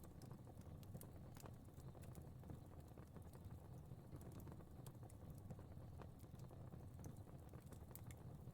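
Fire crackling faintly, with small irregular pops and snaps over a low, steady rumble.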